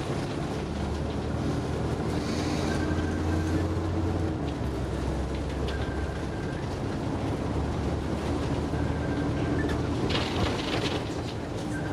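Scania OmniDekka double-decker bus on the move, heard from on board: steady engine and drivetrain running with a whine that rises slowly in pitch, and a burst of rattling from the body about ten seconds in.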